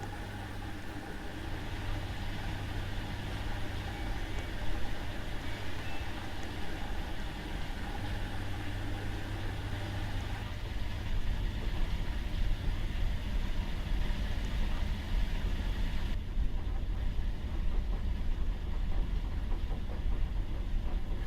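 Washing machine running through a wash cycle: a steady motor hum and low rumble from the turning drum. The sound shifts about ten seconds in and changes again about sixteen seconds in.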